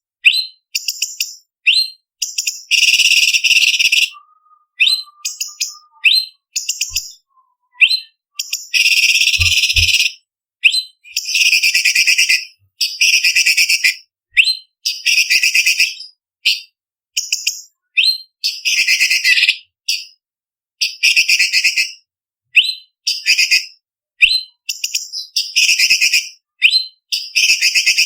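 Orange-bellied leafbird (cucak cungkok) singing a varied, fast song. Short sharp whistled notes alternate with harsh, buzzy chattering phrases about a second long, separated by brief pauses.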